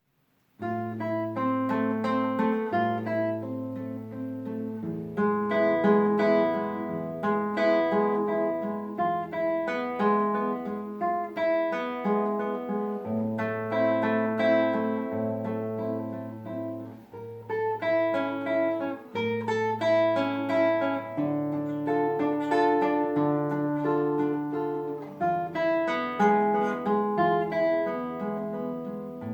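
Solo classical guitar playing a flowing fingerpicked piece, a melody of plucked notes over sustained bass notes, starting about half a second in.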